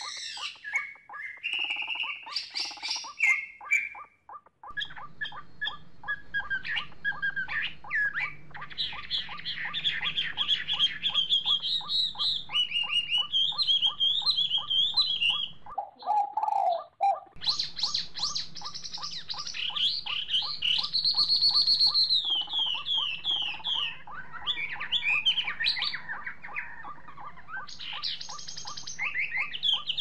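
Several birds chirping and calling, with quick trills and squawks, over a fast even ticking. A low hum cuts in and out abruptly.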